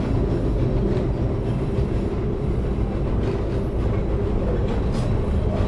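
Passenger train running on the rails, heard from inside the carriage: a steady low rumble, with a single light click near the end.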